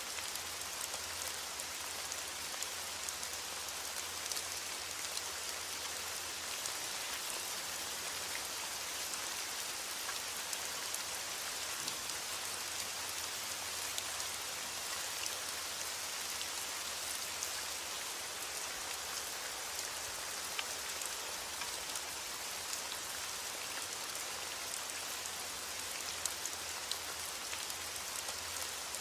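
Steady heavy rain hissing on a window, with scattered small sharp ticks through it.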